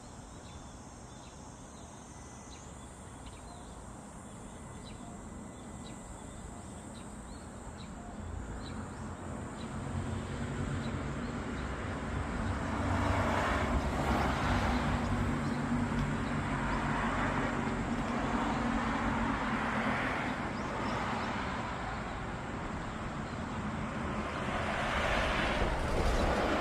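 Outdoor traffic noise: vehicles pass one after another, each swelling and fading, and the rumble builds from about eight seconds in. Faint bird chirps come through in the quieter first seconds.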